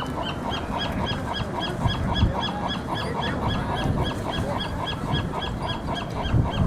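Birds calling over wind noise: a fast, very regular series of short high calls, about four a second, with seagulls squawking less regularly behind it.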